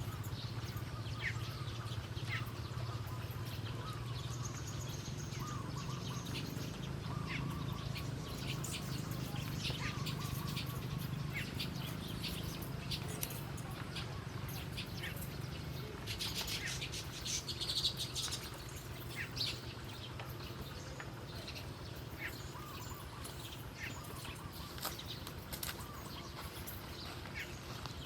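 Wild birds chirping: many short, high chirps scattered throughout, thickest about two-thirds of the way through, over a steady low hum.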